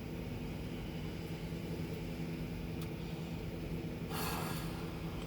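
Steady low machine hum with several even tones, and a short sharp sniff about four seconds in.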